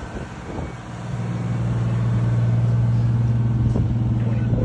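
An engine running with a steady low drone that swells in about a second in and then holds.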